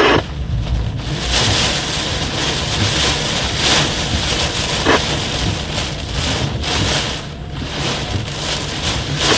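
Thunderstorm wind gusting and buffeting the microphone, a loud rush that swells and eases, with brief louder bursts at the start and at the end.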